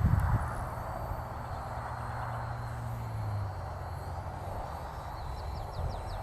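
Parrot Bebop quadcopter buzzing steadily in flight, its hum shifting slightly in pitch about halfway through. There are a few low thumps at the very start, and a short run of quick high chirps near the end.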